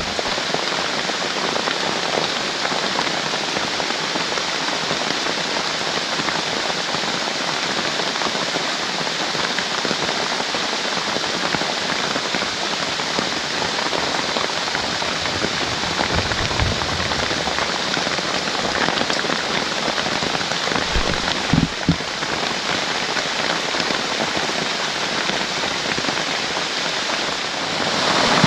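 Rain falling steadily, a dense even hiss of drops, with two short low thumps a little after the 21-second mark.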